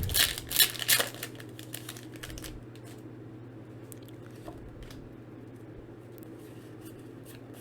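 Foil trading-card booster pack crinkling and tearing open, loudest in the first second or two, followed by faint rustles and ticks of handling, over a steady low hum.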